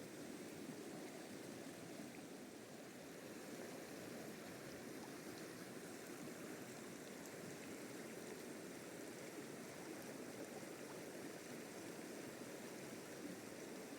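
Steady rush of flowing river water, an even noise without pauses or changes.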